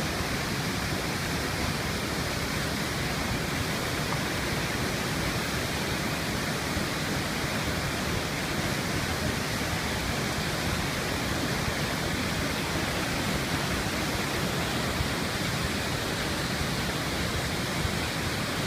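Heavy rain falling: a steady, even rushing hiss.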